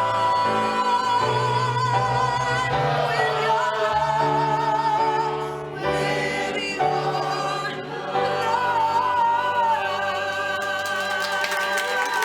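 Chorus singing a slow song with accompaniment: held chords that shift every second or two, with a voice on top singing long notes with a wide vibrato.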